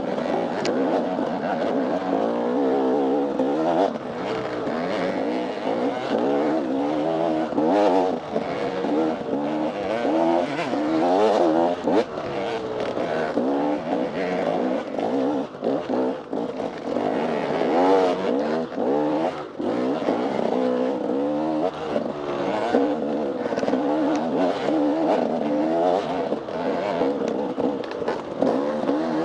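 Dirt bike engine revving up and down constantly under hard riding, with frequent short knocks and clatter.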